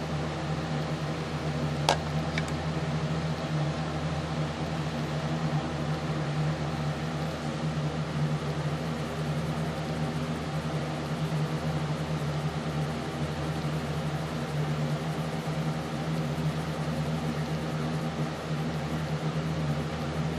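A steady low machine hum, with one sharp click about two seconds in.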